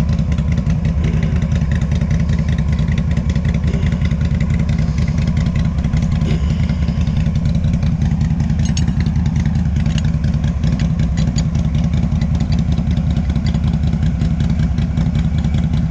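ATV engine idling steadily, an even low rumble that holds the same pitch throughout.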